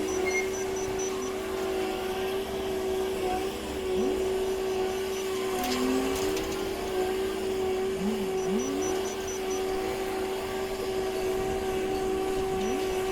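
Heavy diesel machinery running steadily. A lower engine note dips and climbs back about every four seconds over a constant higher tone.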